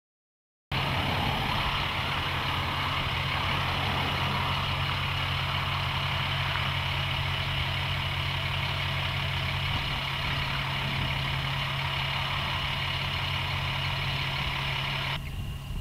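Doppler on Wheels mobile radar truck running, a steady machinery hum with a low drone and a thin high whine over it. It starts abruptly just after the beginning and drops suddenly in level near the end.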